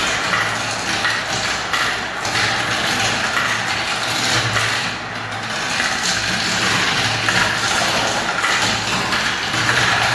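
Many marbles rolling and clattering down plastic spiral ramps, a dense continuous rolling with many small ticks through it.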